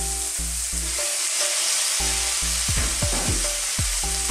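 Onion, tomato and whole king prawns sizzling in a hot oiled wok as the prawns go in, a steady frying hiss.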